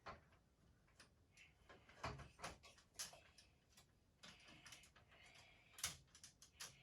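Faint, scattered clicks and knocks of toy train pieces being handled and fitted together, a few separate taps over several seconds with quiet room tone between.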